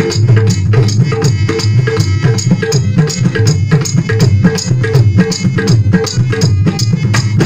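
Instrumental stretch of a Tamil funeral song: quick, steady drumming over a full, held backing.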